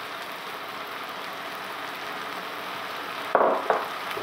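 Courgette curry sizzling in a pan on the hob: a steady hiss. A brief louder noise breaks in about three and a half seconds in.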